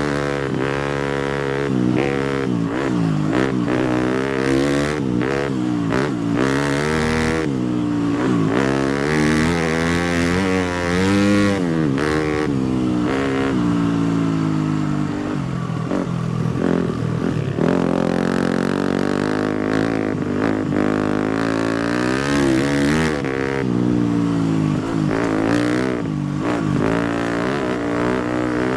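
250cc four-stroke single-cylinder dirt bike engine being ridden, revving up and down over and over as the throttle opens and closes and the gears change.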